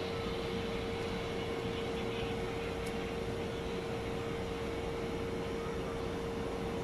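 Steady machine hum with a constant tone, unchanging throughout.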